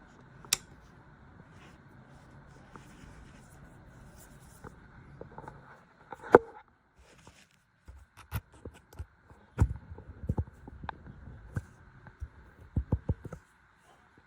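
Scattered clicks and knocks of small objects being handled, the loudest about six seconds in and a run of them near the end, over a faint low hum during the first half.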